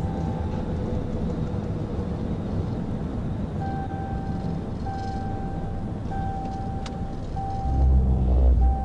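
Steady road and engine noise of a moving vehicle, with a repeating electronic beep from about a third of the way in, each tone about a second long with short gaps. Near the end a loud low rumble lasts about a second.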